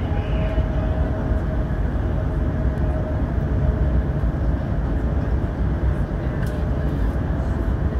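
Passenger train running, heard inside the carriage: a steady low rumble, with a faint steady whine over the first few seconds.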